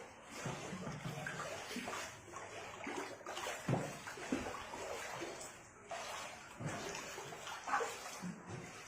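Faint floodwater running and sloshing, a steady wash with small irregular splashes.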